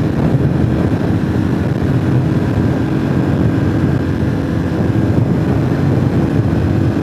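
Motorcycle engine running steadily at cruising speed, mixed with wind rush on the microphone.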